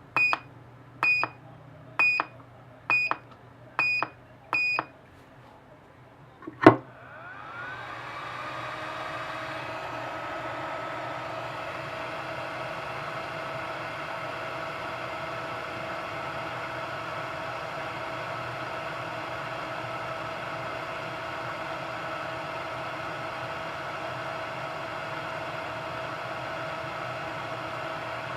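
Yihua 8858 hot-air soldering gun: six short high beeps about a second apart, then a sharp click. Its blower fan then spins up over a couple of seconds and runs steadily at full airflow with an even whine.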